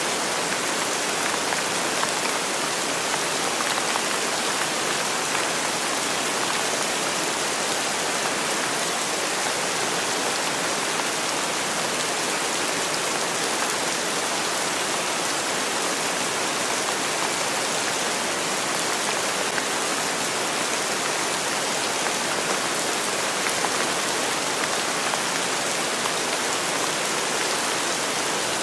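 Steady rain falling and pattering on surfaces, an even hiss with fine drop ticks and no change in intensity.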